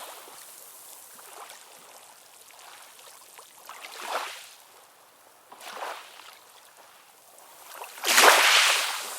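Ocean waves washing in, a soft hiss between swells, with smaller swells at about four and six seconds and the loudest wave surging in near the end.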